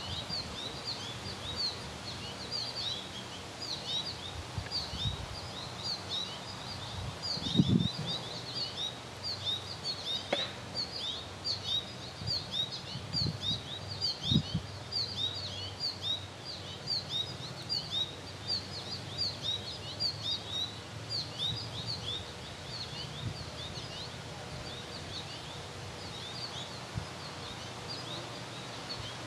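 Small birds chirping continuously, short high notes a few a second, over a steady low background hum. A few dull low thumps come around the middle, and the chirping grows fainter near the end.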